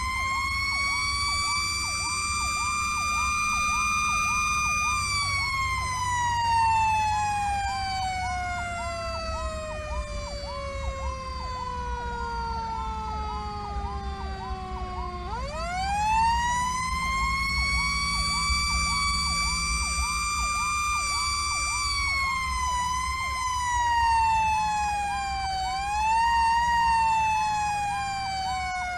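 Fire apparatus sirens. A mechanical siren winds up, holds its high wail, then coasts down in one long falling tone. About halfway through it is wound up again, then rises and dips in shorter swells near the end. Under it an electronic siren yelps rapidly, two to three times a second, over the low rumble of the diesel engine.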